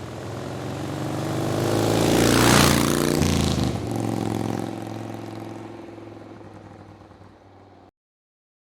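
A motorcycle passing by: its engine note grows louder as it approaches, is loudest about two and a half seconds in, then drops in pitch and fades as it goes away. It cuts off suddenly near the end.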